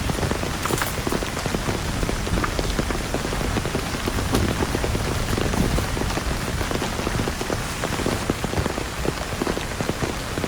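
Heavy rain pouring steadily, a dense patter of countless raindrops striking a surface.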